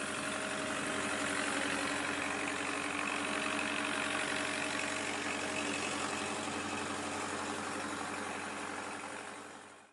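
An engine running steadily with a constant hum, fading out near the end.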